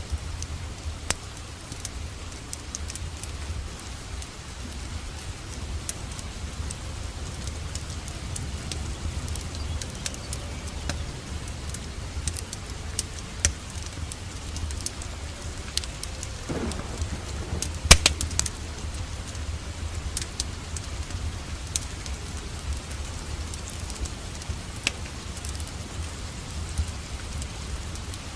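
Steady rain with a low rumble, scattered with the sharp crackles and pops of a wood fire in a fireplace. The loudest pop comes about eighteen seconds in.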